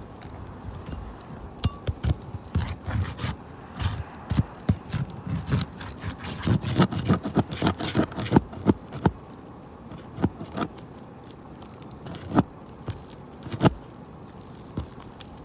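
Asphalt roof shingle being pried and worked loose: irregular scrapes and sharp clicks, with a dense run of quick scraping strokes around the middle and a few single clicks near the end.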